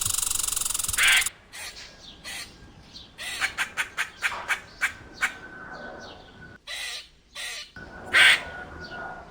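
Squirrel calling: a run of short, sharp chirps, several a second, from about three seconds in, with a louder call near the end.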